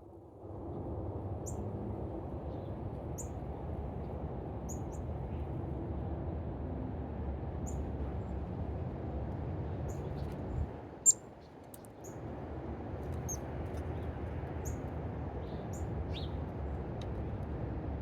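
A small bird chirping, short high chirps repeated about every one and a half seconds, over a steady low rumble. About eleven seconds in there is a sharp click and the rumble briefly drops away before coming back.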